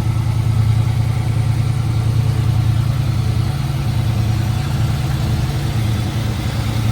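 1967 Camaro engine with dual exhaust idling steadily with a low, even tone, running without knock.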